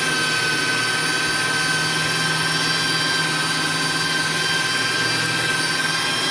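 AARTVARK TEES electric meat grinder running steadily with a constant motor whine while grinding beef. The meat isn't cold enough and one blade isn't fitted right, so it isn't grinding properly.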